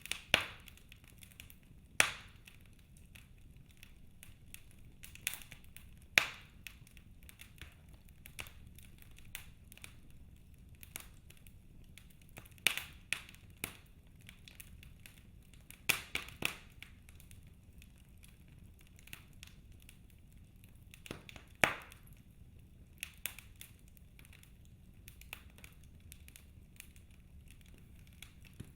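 Wood fire in a fireplace crackling, with sharp, irregular pops from the burning logs every few seconds over a faint low hiss; about seven pops stand out loud above the smaller crackles.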